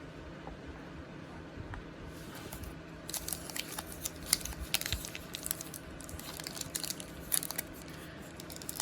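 Plastic trading-card pack wrapper crinkling and tearing as it is worked open by hand, with dense crackling starting about two seconds in. The wrapper is stubborn and slow to open.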